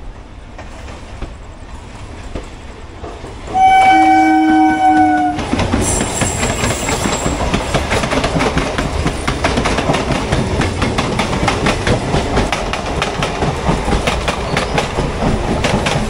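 A train horn sounds once for about two seconds. Then, from inside a moving train, comes the sudden loud rush and rapid clickety-clack of a train passing close by on the neighbouring track.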